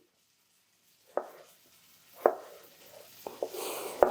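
Kitchen knife chopping on a cutting board: a handful of separate strikes about a second apart, starting about a second in.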